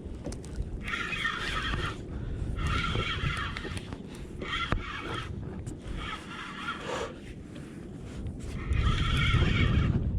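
Penn Spinfisher VI spinning reel being cranked in five short bursts, winding line onto a hooked fish, with a pause of a few seconds before the last burst.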